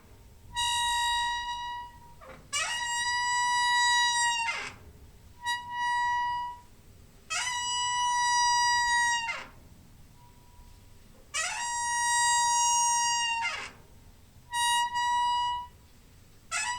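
Door hinge squeaking over and over as the door is swung: about six long, high squeaks, each holding one steady pitch for one to two seconds, with a quick slide in pitch as each starts and stops.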